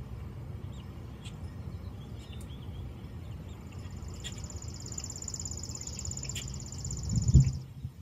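A songbird's high, rapid, even trill lasting about four seconds, with a few short chirps before it, over a low rumble. A loud thump comes near the end.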